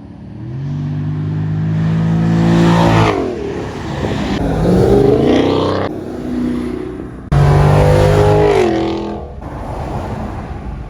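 Car engine accelerating hard, its pitch climbing and dropping back at a gear change, heard twice in sections that start and stop abruptly.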